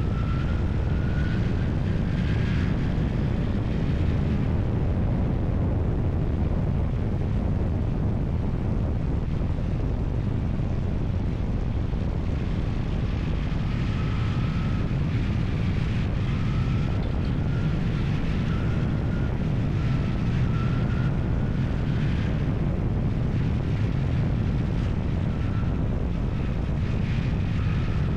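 Steady low rumble of a running engine, with a faint whine above it that rises and falls slightly.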